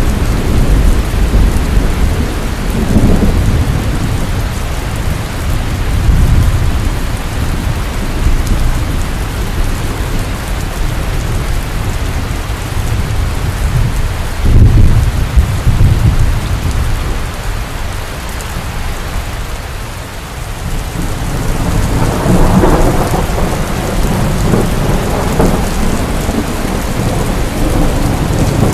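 Heavy rain pouring steadily, with thunder rumbling in repeated low swells; one loud rumble about halfway through, a brief lull, then a longer rolling rumble near the end.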